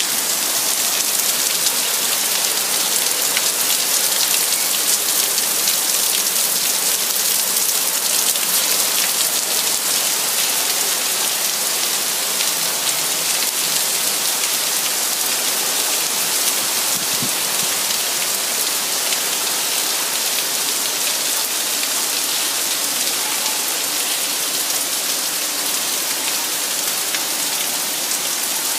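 Heavy rain pouring steadily, drops hissing and pattering on hard surfaces.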